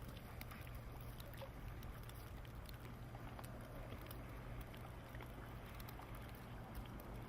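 Low, steady rumble of a car running, heard from inside the cabin, with faint scattered clicks.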